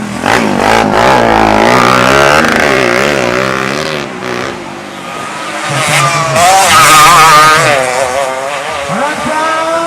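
Racing underbone motorcycle engines revving hard as the bikes pass, with the pitch wavering up and down. It is loudest from about half a second in and again, at its peak, around seven seconds.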